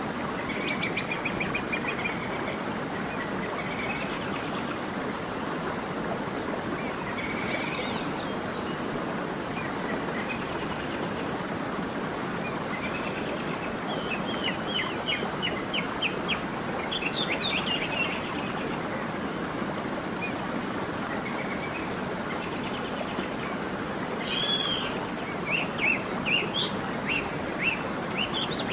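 Songbirds calling and chirping over the steady rush of a flowing stream. Runs of quick chirps and short trills come in several bouts, the busiest in the middle and near the end.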